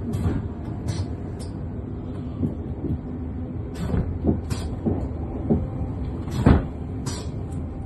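Steady low rumble of a Class 444 Desiro electric train heard from inside the carriage, with irregular clicks and knocks from the wheels passing over rail joints and points. The loudest knock comes about six and a half seconds in.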